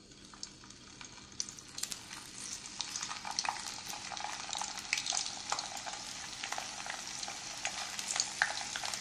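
Raw plantain slices sizzling in hot oil in a pan as they are dropped in one by one. The frying starts faint and grows louder, with many small crackling pops, as more slices go in.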